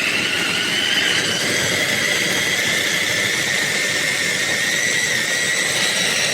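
Wancle 350 W electric food chopper running: a steady motor hum with a high whine, its blades spinning in the glass bowl. The whine sags slightly in pitch over the first couple of seconds.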